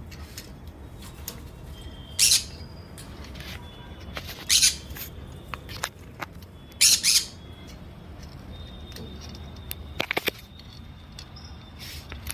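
Green-cheeked conures giving short, harsh squawks every two seconds or so, with faint thin chirps in between. A quick run of clicks comes near the end.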